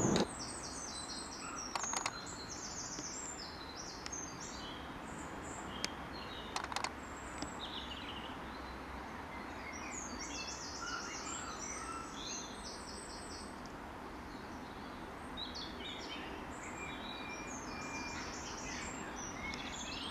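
Small birds chirping and singing, with many short, high calls overlapping throughout over a steady low outdoor background hum. There are a few sharp clicks about 2, 6 and 7 seconds in.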